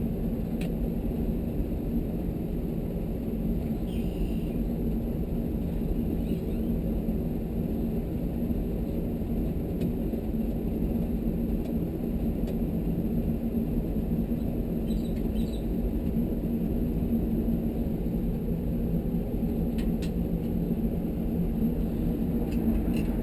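Steady low hum of background machinery, with a few faint clicks of hand tools being worked on the water heater's sheet-metal housing.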